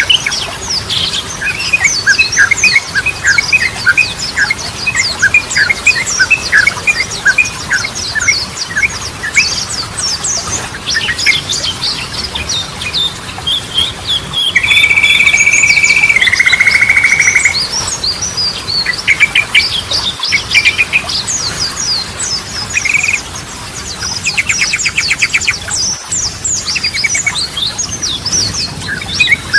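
Yellow-vented bulbul (trucukan) singing in quick chirping, slurred phrases. About halfway through comes a steady held whistle of about three seconds that steps down in pitch after a second and a half, and a fast trill follows near the end.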